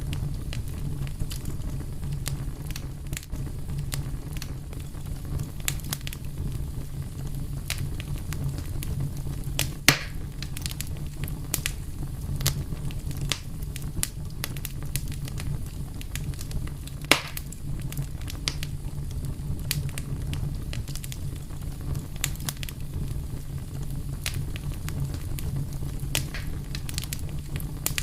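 Wood fire burning with a steady low rumble and constant scattered crackles, with two louder pops about ten and seventeen seconds in.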